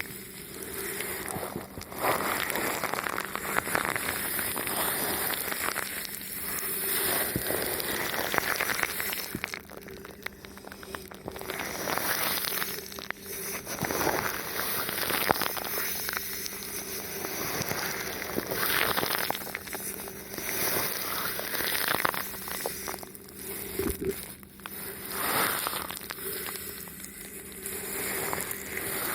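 Thin plastic film wrapped over a microphone being rubbed and touched, giving continuous close crinkling and crackling in swelling and fading waves.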